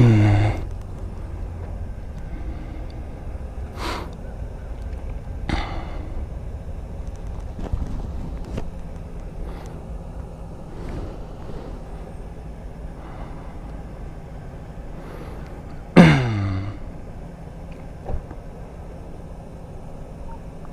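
Motorcycle engine idling with a steady low rumble, blipped twice, once right at the start and again about 16 seconds in, each rev falling quickly back to idle.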